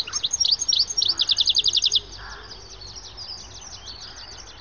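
European goldfinch singing: a quick run of bright twittering notes that speeds up to about ten notes a second, breaks off about two seconds in, then continues as softer, scattered twittering.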